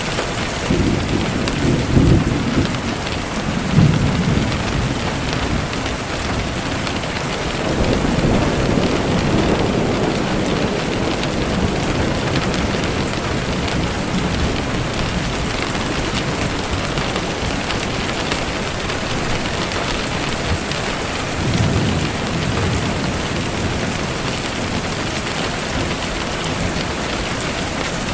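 Steady rain falling, with low rumbles swelling up around two and four seconds in, again for a couple of seconds around eight to ten seconds, and once more past twenty seconds.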